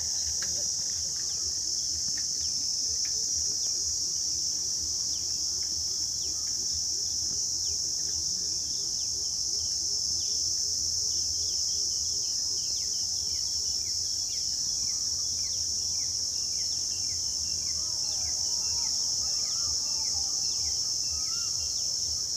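Steady high-pitched insect chorus that runs on unbroken, with a quick series of short bird chirps in the middle and a few wavering bird calls near the end.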